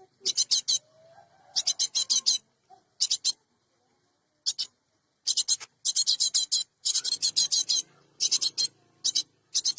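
Cinereous tit (gelatik batu) calling: quick runs of harsh, high-pitched notes in short bursts of three to eight, with a pause of about a second near the middle.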